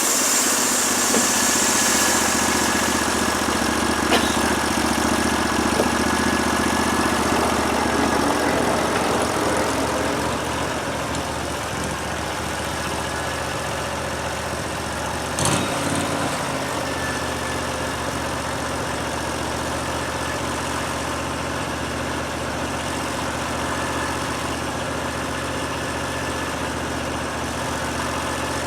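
Gasoline engine of a portable band sawmill running steadily, louder and brighter for the first several seconds, then settling to a lower idle-like drone. A single sharp knock comes about halfway through.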